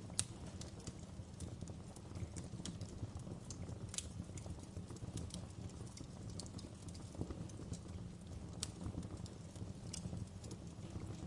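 Wood fire in a fireplace crackling: irregular sharp pops and snaps, a couple a second, over a steady low rumble of burning. The loudest pop comes just after the start.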